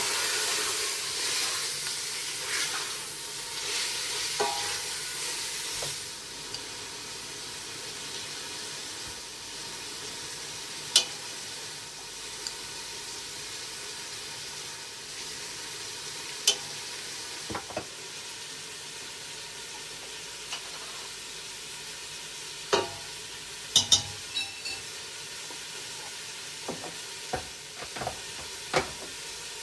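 Food sizzling as it fries in a pan, louder for the first six seconds and then a steady, softer sizzle. Short sharp clicks and taps are scattered through it, most of them in the second half, as a utensil is stirred against the pan.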